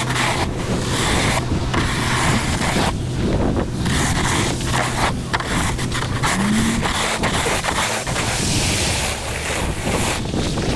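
Wind buffeting the microphone in uneven gusts over a vehicle engine running with a steady low hum. A short rising squeak comes about two-thirds of the way through.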